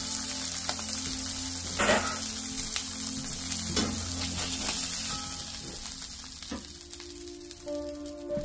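Smash burger patties frying in a cast iron skillet, with a loud sizzle that starts abruptly and eases near the end. A few short knocks sound, about two, four and six and a half seconds in.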